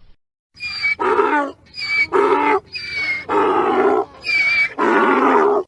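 Donkey braying: four hee-haw cycles, each a thin high squeal on the in-breath followed by a longer, lower rasping haw on the out-breath, cut off abruptly at the end.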